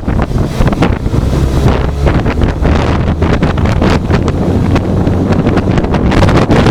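Heavy wind buffeting on a microphone on a moving motorcycle: a loud, rough rushing, strongest in the low end, with irregular gusty flutter.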